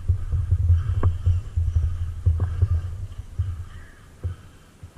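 Low, uneven rumbling buffeting on the camera microphone, fading toward the end, with a few faint clicks.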